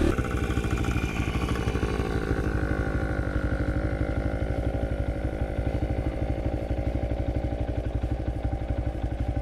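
Pit bike engine idling steadily, an even, rapid putter that holds the same pace without revving.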